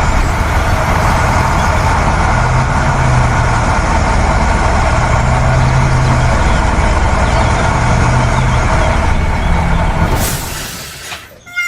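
A motor vehicle engine running steadily with a low hum, ending about ten seconds in with a brief hiss and then dying away.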